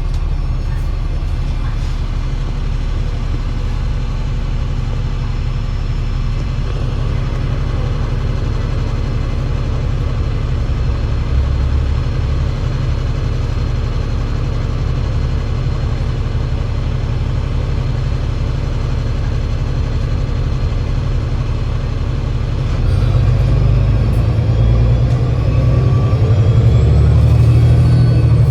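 Enviro500 MMC double-decker bus with a Voith 864.5 automatic gearbox running: a steady low engine drone that grows louder about 23 seconds in as the bus pulls harder, with faint rising whines above it near the end.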